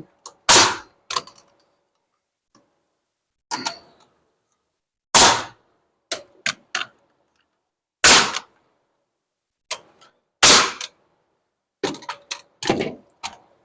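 Nails being driven into wood wall framing: a series of sharp strikes, four loud ones a few seconds apart with lighter knocks in between.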